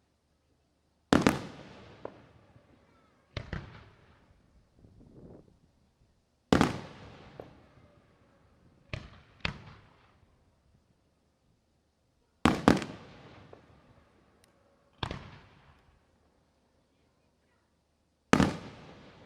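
Aerial fireworks shells bursting: about eight sharp booms spread a few seconds apart, some in quick pairs, each trailing off in a rumbling echo.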